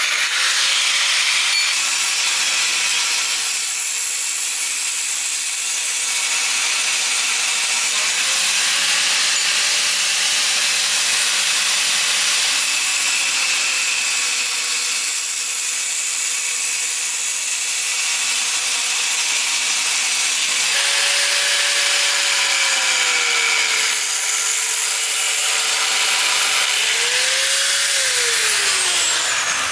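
Handheld electric power tool working wood, its motor running at high speed and dipping slightly in pitch at times as it bites. Near the end it is switched off and winds down.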